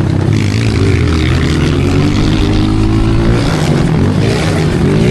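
Pit bike engine running while ridden, its revs rising and falling with the throttle, with a quick rev-up near the end.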